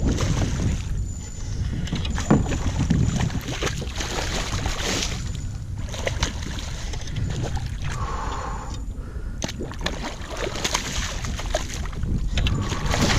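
Wind buffeting the microphone, with water sloshing and slapping against a fishing kayak's hull in uneven surges and scattered knocks.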